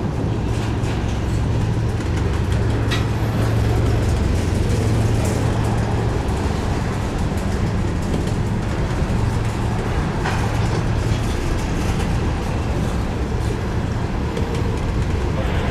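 Freight train cars rolling past on the rails: a steady rumble with a low drone and a few sharp clanks.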